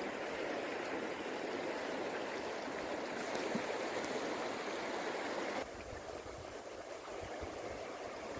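River water flowing in a steady babbling rush. About two-thirds of the way through it drops suddenly to a quieter rush, with low irregular rumbles underneath.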